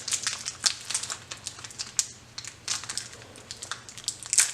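Crinkling and crackling of a ration food wrapper being opened by hand to get at a fruit nougat bar, in quick irregular bursts with a louder crackle near the end.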